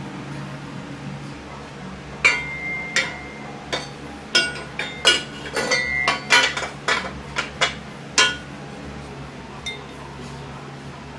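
Metal objects clinking and knocking together: a run of about a dozen sharp strikes with a short ring, ending about three-quarters of the way in, over a steady low hum.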